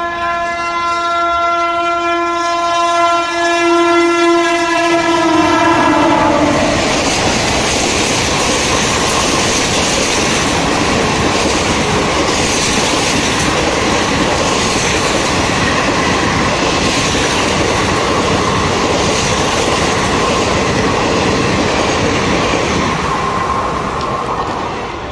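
Train horn blowing one long blast of about six seconds, its pitch dropping as it ends, followed by the train running past with its wheels clattering over the rails; the rushing fades near the end.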